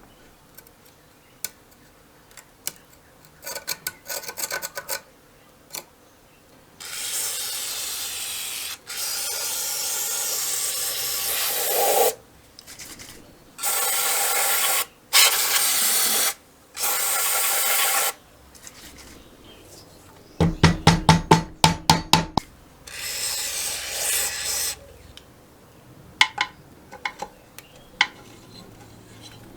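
Hand-tool work on a small engine: several long, rasping scrapes lasting a few seconds each, with a quick run of sharp clicks about two-thirds of the way through and scattered small taps.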